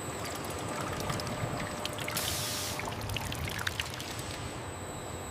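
Liquid pouring steadily over a low machine hum in a glycerin processing line, with small splashes and a brief hiss about two seconds in.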